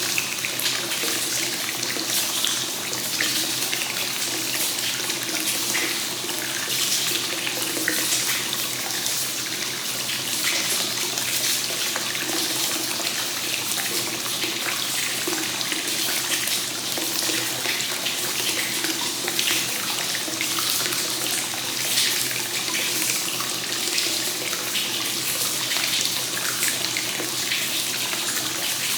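Hot-spring water flowing continuously into an onsen bath (free-flowing gensen kakenagashi), pouring into the tub with a steady, even splashing.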